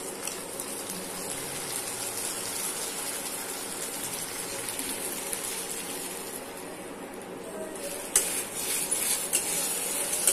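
Vegetables sizzling in a steel kadai as cornflour slurry is poured in. About eight seconds in, a steel spatula starts stirring and scraping against the pan with sharp clicks.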